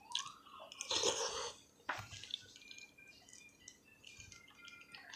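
Close-up mouth sounds of eating: wet chewing and lip smacking, with a louder slurp about a second in and a sharp click near two seconds.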